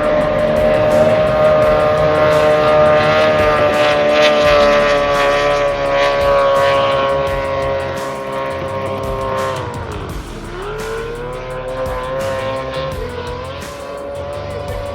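V8 circuit race boat engine running at high revs, its pitch easing down slowly, then dropping sharply about ten seconds in and climbing back up.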